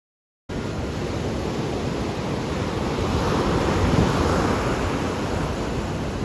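Ocean surf washing in, with wind rumbling on the microphone; it cuts in abruptly about half a second in. A wave swells louder a few seconds in and then eases back.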